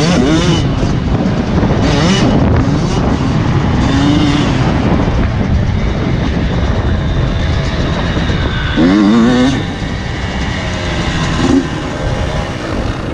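Motocross bike engines running and revving, their pitch rising and falling over a steady loud din, with the loudest surge about nine seconds in.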